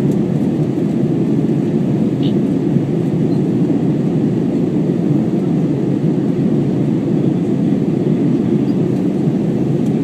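Steady cabin noise of an Airbus A321 in flight: a constant low rush of airflow and engine noise with no changes.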